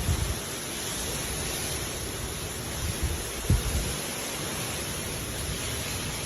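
Hard rain falling steadily, a dense even hiss. There are brief low thumps, one just after the start and a louder one about three and a half seconds in.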